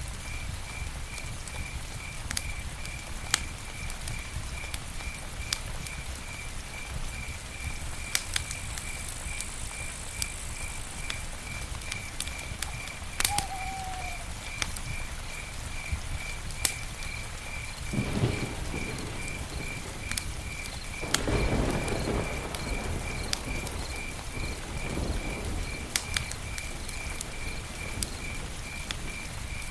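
Campfire crackling, with scattered sharp pops over a low rumble and a couple of louder rushing surges in the second half. A steady, high-pitched chirp repeats about three times a second throughout.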